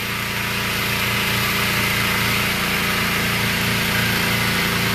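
Small gas-engine pressure washer running steadily, its engine hum under a constant hiss.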